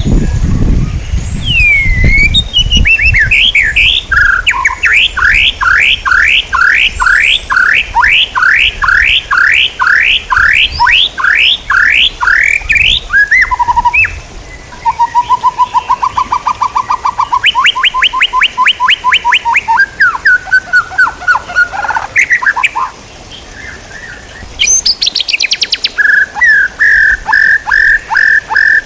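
Songbirds singing in a bird-song training recording: a long run of quick falling whistled notes, about two a second, then lower trills and a fast buzzy trill. After a short lull near the middle, a sharp burst is followed by steady repeated chirps, about four a second.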